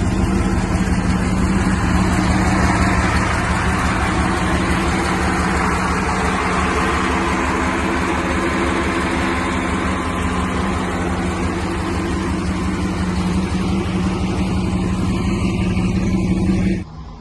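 Oldsmobile 350 Rocket V8 in a 1954 Ford F-100 running at a steady engine speed, with an even drone and low pulsing. It cuts off suddenly near the end.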